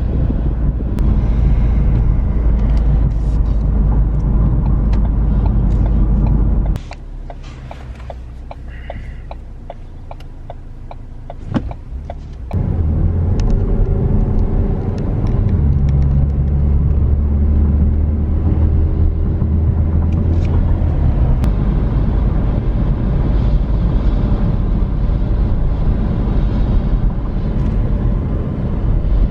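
Car cabin noise while driving: a steady low engine and road rumble. Midway it drops for about six seconds to a quieter idle with a regular ticking and one sharp click, then the engine picks up again as the car pulls away.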